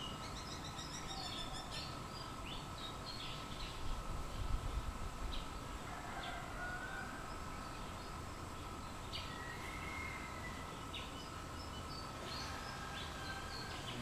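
Small birds chirping in scattered short high notes, with a quick run of falling notes in the first two seconds, over a steady faint outdoor hiss. A brief low rumble comes about four seconds in.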